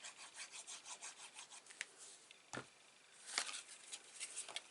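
Faint rubbing and scraping of paper and card as a glued paper strip is pressed and smoothed onto a paper gift box, in quick rough strokes, with a single soft knock about halfway through.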